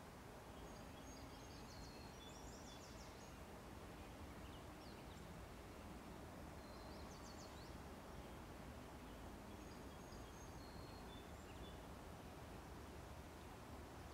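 Faint songbird chirping: short phrases of quick high notes every few seconds, over a steady low background rumble.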